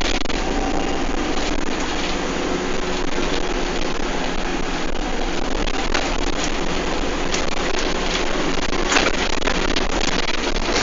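Bus engine running under way, heard from inside the bus, over steady road and wind noise. A few short sharp knocks or rattles come through, the loudest about nine seconds in.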